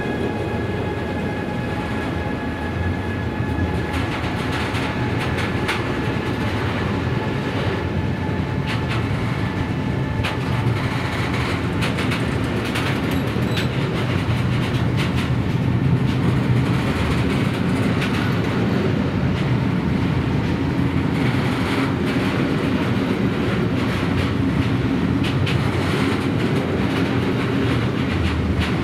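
Container freight train's wagons rolling past at speed: a steady rumble of steel wheels on rail with rapid clickety-clack over rail joints. A thin high whine fades away over the first ten seconds or so.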